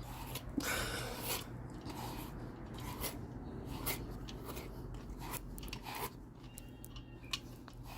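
Self-cleaning dog brush raking through a dog's coat in a run of short, irregular strokes, a faint scraping of bristles through fur.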